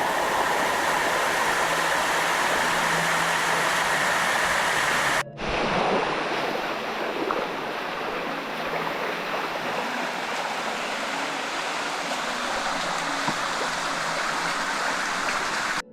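Water rushing steadily over shallow limestone cascades, a continuous rush that cuts out briefly about five seconds in.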